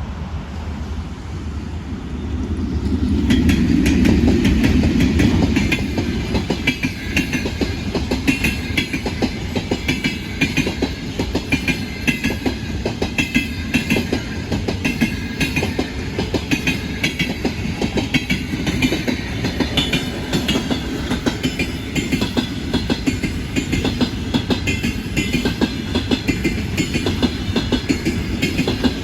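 Passenger train passing close by: a loud swell as the locomotive goes past about four seconds in, then the carriages rolling by with a steady clickety-clack of wheels over the rail joints.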